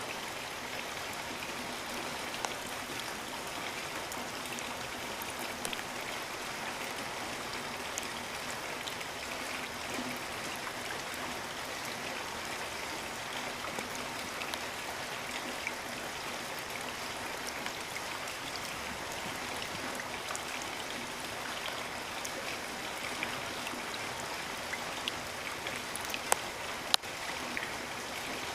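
Steady rain falling, with scattered individual drops ticking close by and a few sharper drop hits near the end.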